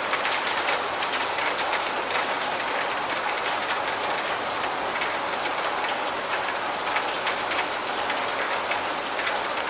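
Steady rain: a dense, even hiss with many close drop ticks.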